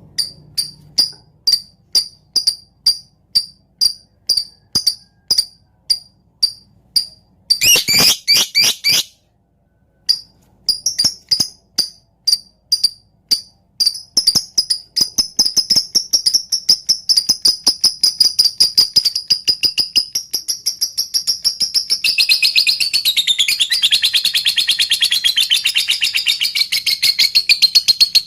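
Lovebird 'ngetik' calls: sharp, high chips about three a second, with a brief dense chatter around eight seconds in. After a short pause the chips speed up into a fast ticking run, which in the last few seconds turns into a long, wavering chatter.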